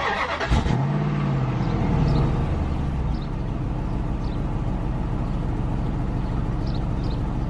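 2004 Dodge Ram 1500's 5.7-litre Hemi V8 running: its pitch climbs and settles back over the first couple of seconds, then it holds a steady idle.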